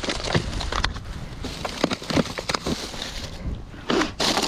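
Plastic bags and frozen food packages rustling and knocking as someone rummages through a dumpster: irregular crinkles and clicks, with a louder rustle near the end.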